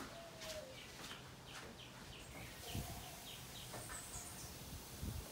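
Small birds chirping in the background, short high falling chirps two or three a second, with a brief lower call now and then and a couple of soft low thumps.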